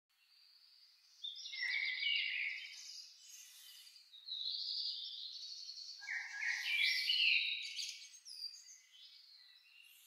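Birdsong: a songbird singing two long, varied, high phrases of quick stepping notes, with a short pause between them.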